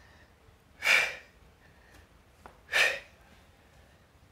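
Two hard, breathy exhales about two seconds apart: a person blowing out forcefully on each rep of a side plank crunch.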